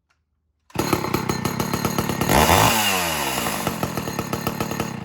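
Older two-stroke chainsaw running: it comes in abruptly about a second in, revs up briefly a little past two seconds in and drops back, then runs steadily.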